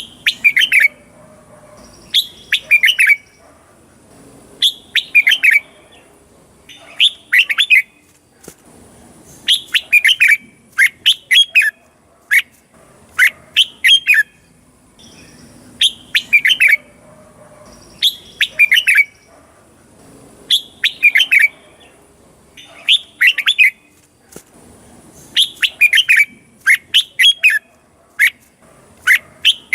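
Red-whiskered bulbul singing: short phrases of quick, warbled whistled notes, repeated about every two seconds with brief pauses between them.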